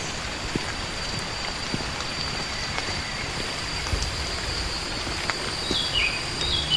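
Forest ambience: a steady hiss with a thin, high, unbroken tone running through it. Near the end a bird calls in a few short notes that step down in pitch.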